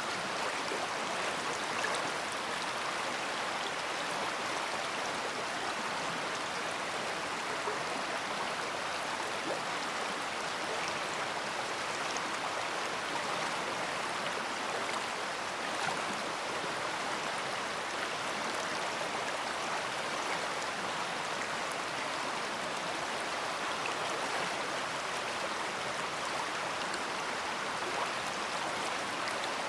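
A big river flowing: a steady rush of water with a fine constant splashing texture that does not change.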